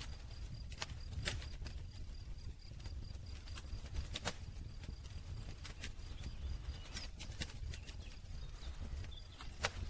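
Wood campfire crackling: irregular sharp pops and snaps, one of the loudest near the end, over a low steady rumble.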